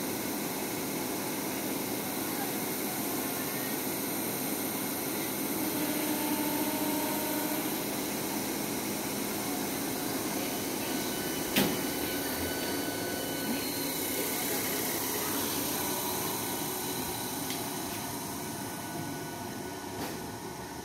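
ICF-built electric multiple unit local train running past: steady rolling noise of its wheels on the rails, with one sharp clack about halfway through, fading near the end as the last coach goes by and the train draws away.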